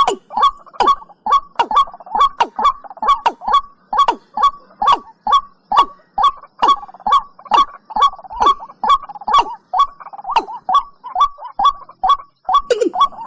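Watercock calling: a long, fast run of short notes, about two to three a second, each dropping sharply in pitch.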